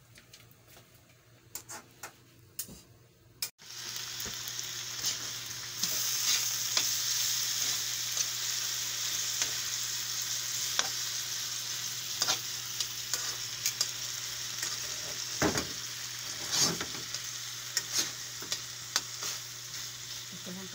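Pork frying in oil and sauce in a metal wok, sizzling steadily while metal tongs scrape and clatter against the pan as the pieces are turned. The first few seconds are quiet with a few light clicks, then the sizzling comes in suddenly and grows louder a couple of seconds later.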